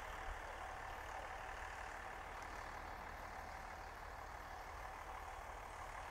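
Steady vehicle engine and road noise, a low rumble with a faint steady whine, unchanging throughout.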